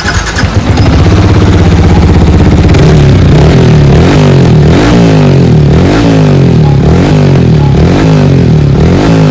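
Yamaha R15 V3's 155 cc single-cylinder engine running loud through its cut-down stock exhaust with a short bend pipe and aftermarket muffler. It holds steady at first, then from about three seconds in it is revved in quick throttle blips about once a second.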